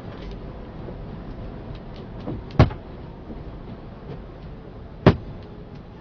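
Steady low rumble of a semi truck on the move, heard from inside the cab, with two sharp knocks about two and a half seconds apart and a few faint clicks.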